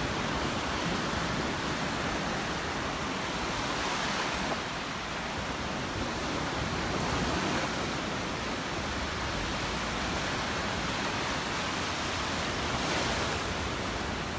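Gulf of Mexico surf washing onto the beach, a steady rush that swells a little a few times, mixed with wind noise on the microphone.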